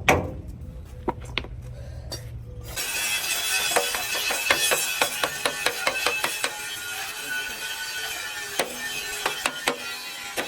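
Irregular clicking and tapping of hand tools on metal, over a steady low hum that gives way to a brighter hiss about three seconds in.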